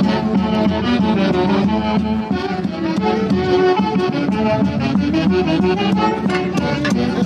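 Live traditional Andean dance music from a folk orchestra: several sustained melody instruments playing together over a steady beat.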